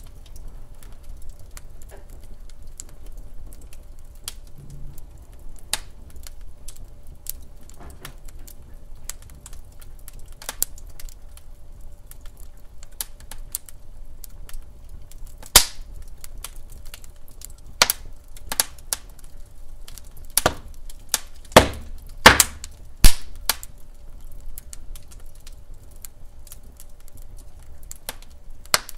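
Wood fire crackling in a fireplace: irregular sharp pops and snaps over a low rumble of burning logs, with a cluster of louder pops about two-thirds of the way through.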